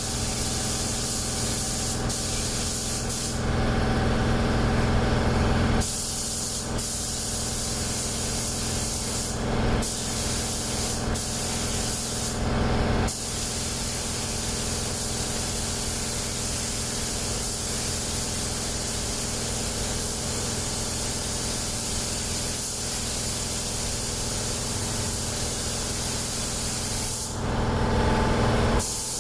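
Compressed-air spray gun spraying primer onto car body panels, a steady hiss that stops for short moments four times as the trigger is released. A steady low hum runs underneath.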